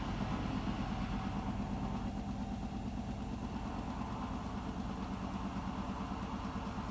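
Hotpoint WMFUG 942 washing machine spinning its drum in an interim spin, a steady hum with fast, even pulsing from the drum's rotation. It eases slightly about two seconds in.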